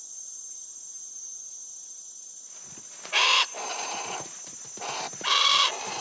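A steady hiss, then a bird's loud harsh calls: one about three seconds in and another near the end, with fainter calling between them.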